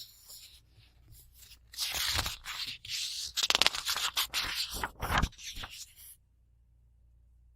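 Book pages being handled and flipped: a few seconds of paper rustling and crackling, with a quick riffle of pages in the middle, stopping abruptly.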